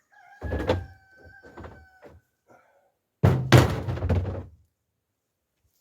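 Chunks of split oak firewood being tossed onto a pile or load, landing with heavy wooden thunks. A first thud with a brief ringing tone is followed by a few lighter knocks, and a louder, longer clatter of logs comes about three seconds in.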